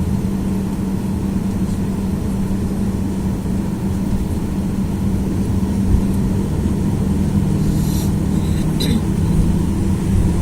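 Cabin noise of a Boeing 737-800 taxiing: its CFM56-7B jet engines run at low thrust as a steady drone with a low hum, and a second hum joins about seven seconds in. A few faint clicks come near the end.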